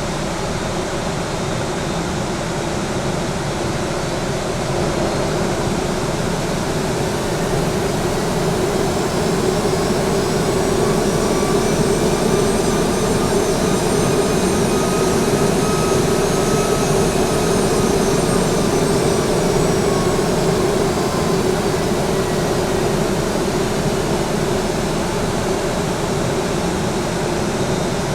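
Boeing 737-800's CFM56 turbofan engines running loud under a steady rush of noise, with an engine whine that rises in pitch and then falls away; the sound swells to its loudest around the middle.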